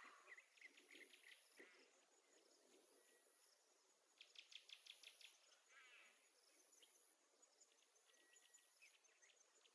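Faint nature ambience of high chirps and rapid clicking trills, with a short burst of trilling about halfway through.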